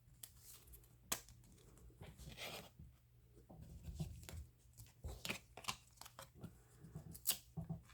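Soft, scattered crinkling, tearing and clicking of a baseball card pack wrapper and cards being handled, over a faint low hum.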